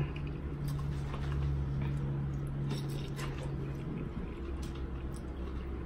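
Eating sounds: faint chewing and mouth clicks over a low steady hum that stops about four seconds in.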